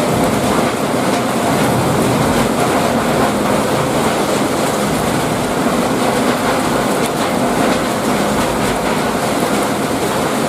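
Heavy rain falling, a dense steady downpour with no let-up.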